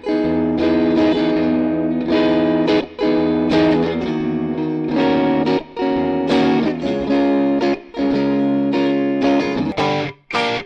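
Electric guitar playing sustained chords with a distorted, effects-laden tone, the chords changing every second or two with short breaks between; near the end it switches to short, choppy stabs.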